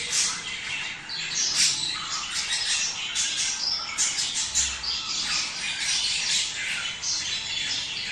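Budgerigars chattering: a dense, unbroken stream of overlapping chirps, warbles and squawks, the budgie mating chatter sold for playing to pet budgies to get them to breed.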